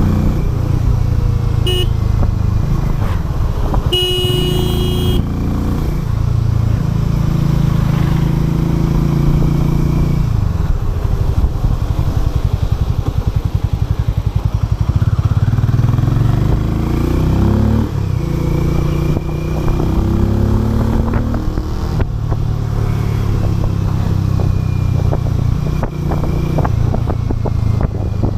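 Harley-Davidson X440's 440 cc single-cylinder engine running on the move, its pitch rising and falling with throttle and gear changes. A short horn-like beep sounds about four seconds in.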